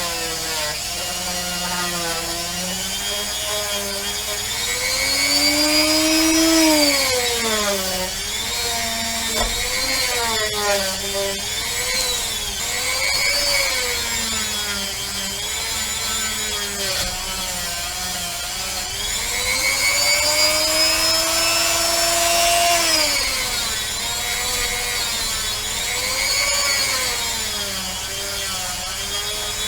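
Small rotary tool with a buffing wheel polishing a pewter cast. The motor's whine dips and rises over and over as the wheel is pressed onto the metal and eased off.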